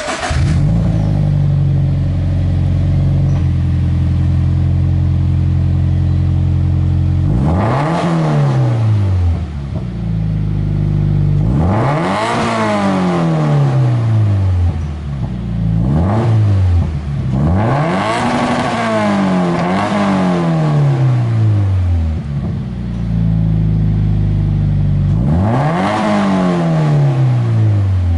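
Subaru BRZ flat-four boxer engine breathing through an Invidia N1 cat-back exhaust, starting up and settling into a steady idle, then revved several times, each rev climbing quickly and falling back to idle. The exhaust note is a deep tone.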